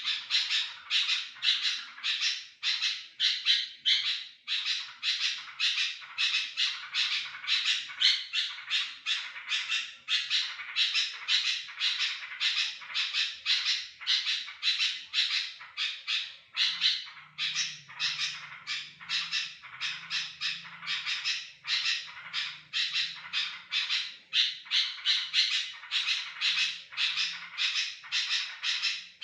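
Sooty-headed bulbul (kutilang) calling without pause, a rapid run of short, loud calls about two or three a second, the kind of constant calling used as a lure to draw other bulbuls.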